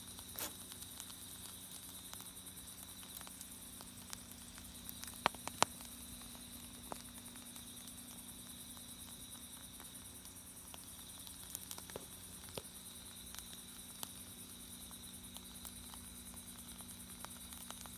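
Wood fire in a campfire stand crackling, with irregular sharp pops, the loudest a pair about five to six seconds in. Crickets chirr steadily and high in the background.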